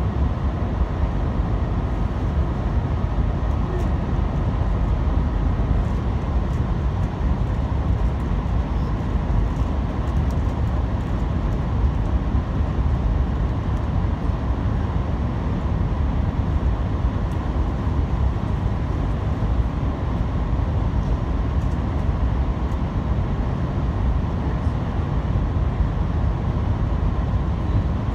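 CRH6A electric multiple unit running along the line: a steady, even rumble of wheels on rail and running gear, with a faint steady whine above it.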